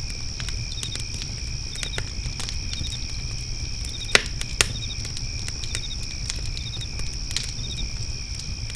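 Wood fire pit crackling with scattered sharp pops, two louder pops about four seconds in, over crickets trilling steadily and another insect chirping in a short repeating phrase.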